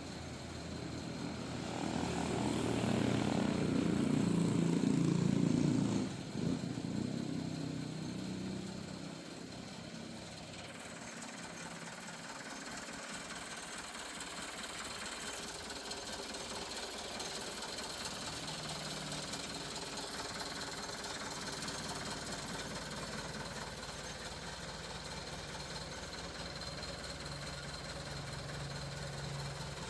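Truck engine running, louder for a few seconds near the start and dropping off suddenly, then settling to a steady idle.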